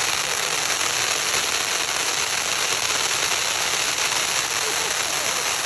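Fireworks crackling: a dense, steady crackle of many small pops, with no single big bang standing out.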